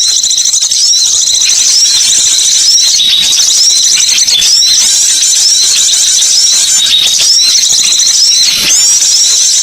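Bird-lure recording of many birds chirping at once, a continuous high-pitched chatter of overlapping short calls with no pauses.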